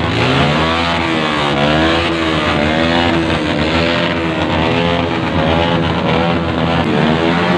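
Several motorcycle engines revved hard over and over through their exhausts, the pitch swinging up and down about once a second in overlapping waves.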